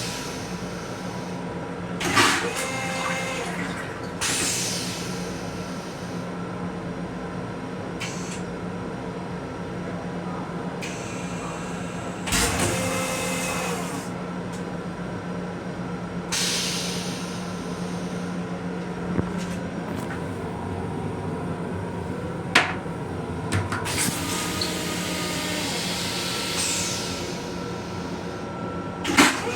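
Inside a Metro-North M7 electric railcar: the train's steady running hum. Short rushes of noise and sharp clacks come at intervals over it.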